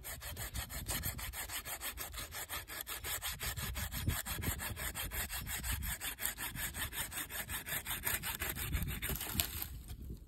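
Hand saw cutting through wood in a fast, even rhythm of strokes, stopping just before the end.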